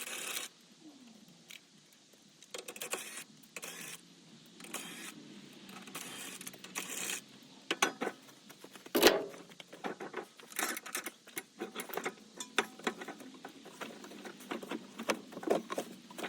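Irregular sharp clicks and metallic jingling from small metal objects being handled, with one louder knock about nine seconds in.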